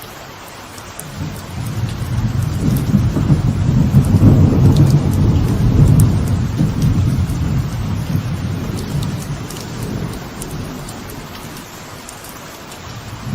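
Light rain falling steadily on a veranda, with scattered drips, while a long roll of thunder builds about a second in, peaks in the middle and slowly fades away.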